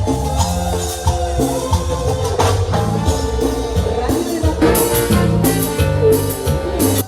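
Live Latin dance band music: a full band with drum kit, percussion and pitched instruments playing a steady rhythm.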